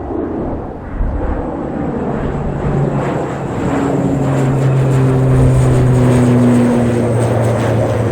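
Airliner engines running close by as an aircraft passes, loudness building to a peak about five or six seconds in. A steady high whine sits over a low hum, with gusty rumble underneath.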